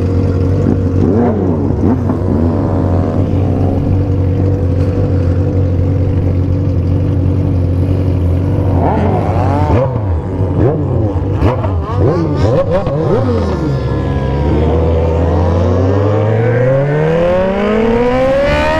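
Motorcycles with loud three-inch aftermarket exhausts. One engine holds a steady pitch while other bikes nearby rev up and down. Over the last few seconds an engine accelerates, its pitch rising steadily.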